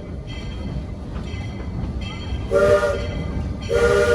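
Steam locomotive whistle sounding a chord of several notes at once in two short blasts about a second apart, over the steady low rumble of the narrow-gauge train rolling along.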